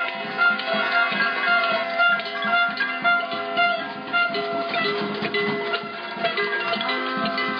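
Music played on a plucked string instrument like a guitar, a stream of picked notes changing in pitch.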